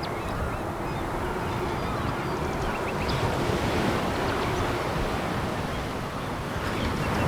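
Sea waves washing onto a pebble beach: a steady wash of surf with scattered small clicks of pebbles rattling in the water.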